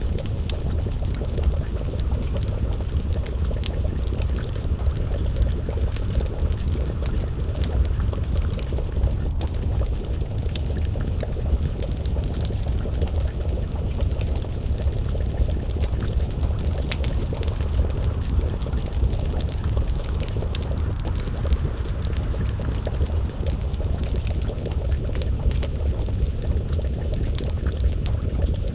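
Wood fire crackling, with frequent sharp pops over a steady low rumble, and bubbling like a pot of stew simmering over the flames.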